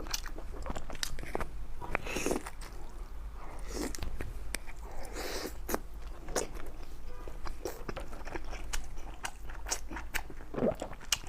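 Close-up mouth sounds of a person chewing and biting taochang, layered pork intestine: many quick wet clicks and smacks throughout, with a few longer squishy chews.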